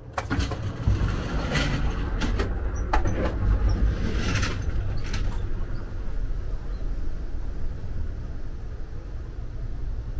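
Moving Amtrak passenger train heard from inside the car: a steady low rumble of the running train. Sharp clicks and knocks come in the first few seconds, where the camera passes through the door between cars, then the rumble settles.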